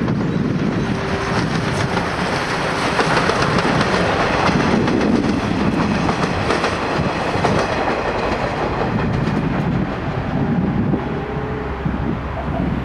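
Steam-hauled passenger train passing close by, its wheels clacking over the rail joints in a steady rush of noise that thins out near the end as the last coach goes by.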